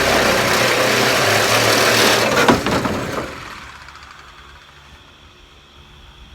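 Power tool cutting through the sheet metal of a pickup truck bed: loud and harsh, then let off about two and a half seconds in and winding down to a low hum over the next second or so.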